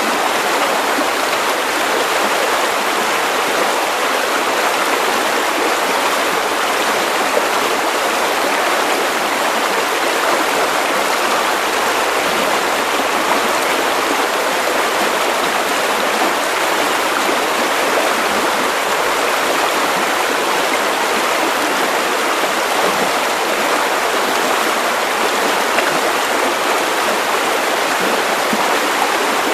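Steady white noise: an even, unbroken hiss with little deep rumble, unchanging in level throughout.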